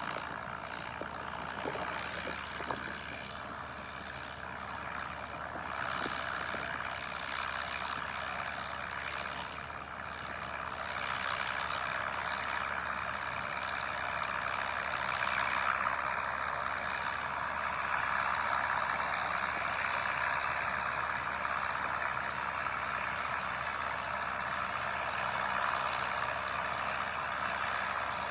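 Restored John Deere 3010 tractor's four-cylinder engine running steadily under load while pulling a plow.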